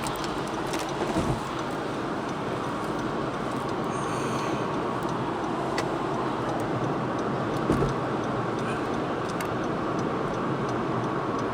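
Steady car noise, an even rush of engine and road sound, with a couple of brief knocks about a second in and again near eight seconds.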